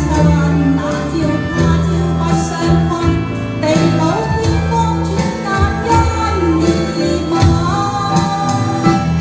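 A song sung with instrumental accompaniment, the melody held in long notes over steady backing.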